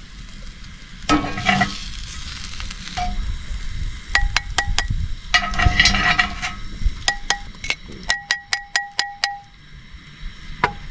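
Onions frying in a pan with a steady sizzle, stirred twice with louder scraping. Between the stirs come groups of sharp, briefly ringing taps, the last a run of six at about four a second.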